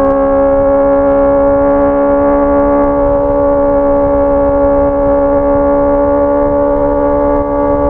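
Honda CBR 650R's inline-four engine held at high, steady revs: one constant, smooth engine note.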